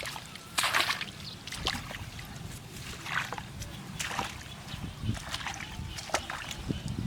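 Water splashing and sloshing in irregular bursts, with the loudest splash just under a second in.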